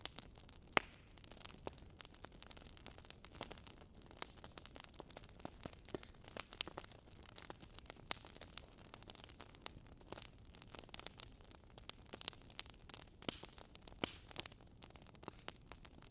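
Burning firewood crackling, with irregular sharp pops and snaps over a faint hiss.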